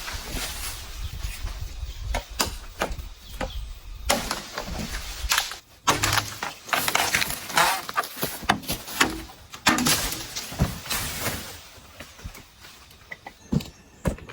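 Irregular knocks, taps and rustling of bamboo being handled and worked during shelter building, under a steady hiss for the first few seconds; the knocks thin out near the end.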